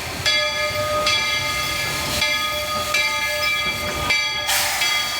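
Steam locomotive bell ringing, struck about once a second, with a short burst of steam hiss near the end.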